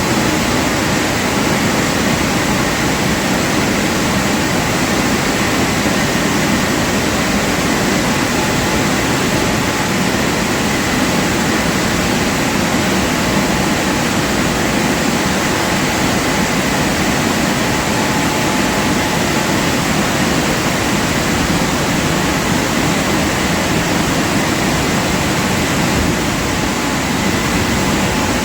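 Automatic car wash machinery running, a loud steady rush of water jets or blowers with a faint constant whine over it.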